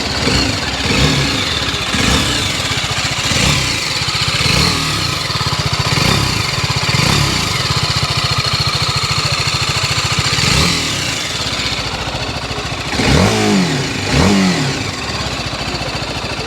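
BMW G 310 RR motorcycle's single-cylinder engine idling, blipped repeatedly with short throttle revs that rise and fall back, two quick sharp ones near the end.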